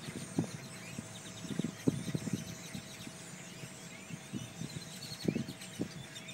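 Flock of birds calling together, many short overlapping chirps without a break, over irregular low thumps and a faint steady hum.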